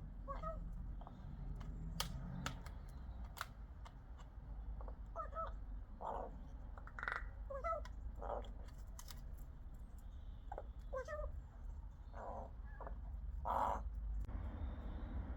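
Rook calling in a varied series: short pitched notes in quick clusters alternating with harsher caw-like calls, about one every second or two. Sharp clicks or taps sound here and there between the calls.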